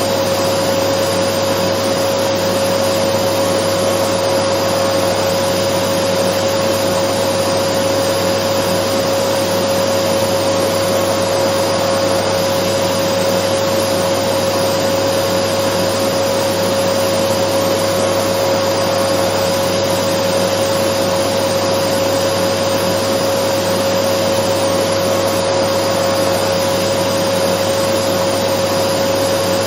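Dyson vacuum cleaner running steadily: an even, unchanging noise with a strong steady whine at one pitch.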